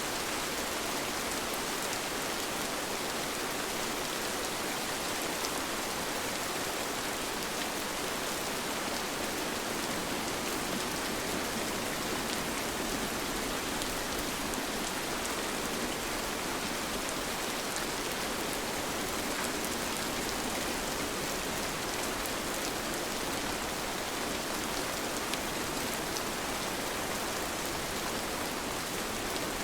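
Steady rain falling, an even hiss with fine scattered drop ticks through it.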